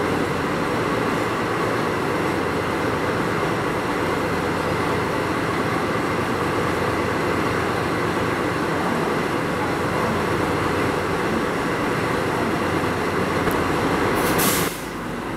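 A JR West 207 series electric train rolling slowly into the station beside a DD51 diesel-hydraulic locomotive running its engines, a steady loud rumble of engine and wheels. Near the end comes a short sharp hiss.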